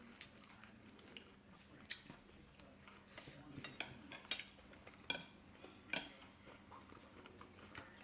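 Eating sounds: cutlery clicking and scraping against a plate, about half a dozen scattered clicks, with faint chewing.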